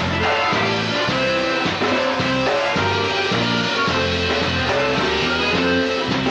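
Live polka band playing an up-tempo tune, with a steady bass line under many overlapping instrument notes.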